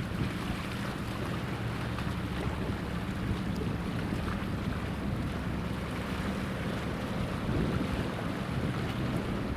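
A boat's engine running steadily with a low hum, mixed with water wash and wind on the microphone.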